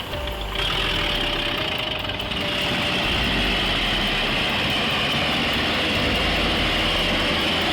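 Diesel tractor engines running under load as a T-40 and an MTZ-82 pull against each other in a tug of war. The sound gets louder about half a second in and then holds steady.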